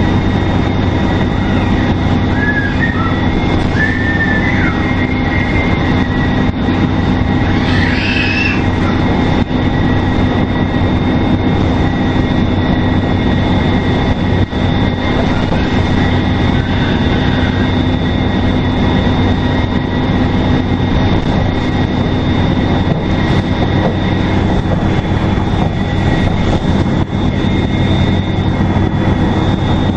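2002 NABI 40LFW transit bus under way, its Detroit Diesel Series 50 four-cylinder diesel running steadily with a constant high turbocharger whistle over the engine drone. A few brief squeaks come about two to four seconds in and again near eight seconds.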